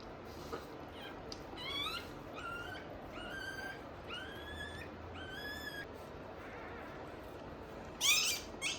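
Newborn Shiba Inu puppy crying: a run of about five high-pitched cries that rise in pitch, then a louder, sharper cry near the end.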